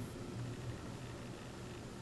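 Low, steady muffled hum and rumble of a passing train, heard through soundproofed triple glazing.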